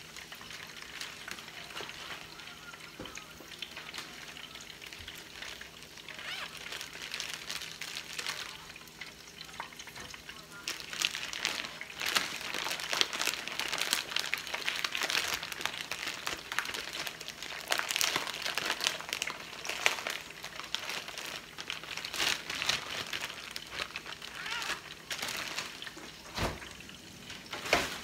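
Crab cakes frying in olive oil in a skillet, the oil sizzling and crackling steadily and growing busier about a third of the way in, over a faint steady hum. Near the end there is a sharp knock.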